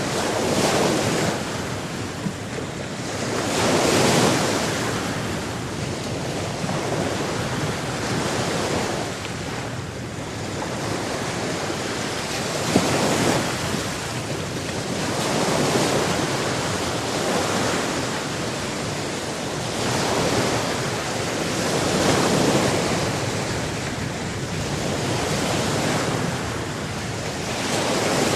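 Sea waves washing in, a steady rush of surf that swells and falls back every few seconds, with one short click near the middle.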